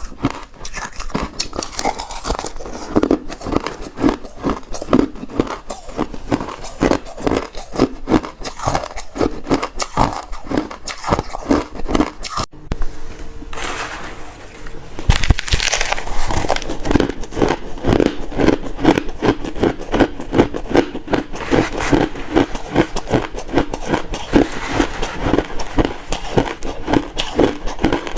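Close-miked chewing of refrozen crushed ice: rapid, dense crunching, with a short lull about halfway, then a loud bite and more crunching.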